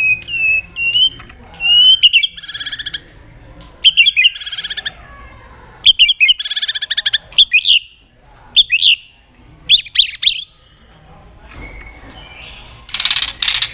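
White-rumped shama singing a varied song: a few clear whistles, then quick buzzy trilled phrases and sharp down-slurred notes, with a fast rattling series near the end.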